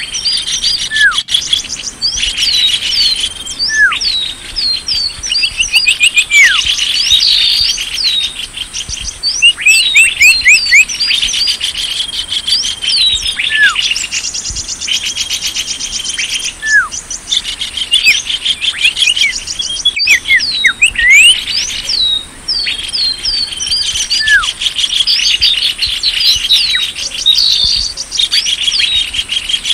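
Dense chorus of small birds chirping: many quick falling chirps overlapping with fast buzzy trills and an occasional lower down-slurred note. It is a lure call (suara pikat) recording meant to draw small birds in.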